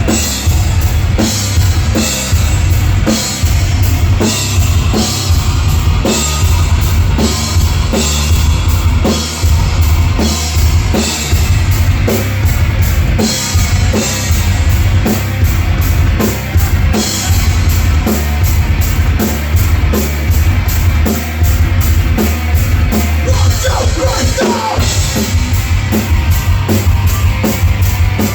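Live heavy metal band playing an instrumental passage: fast pounding drum kit with bass drum and crashing cymbals under distorted guitars and bass.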